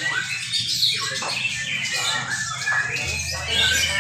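Several young white-rumped shamas singing at once in a songbird contest, their whistled and chattering phrases overlapping densely.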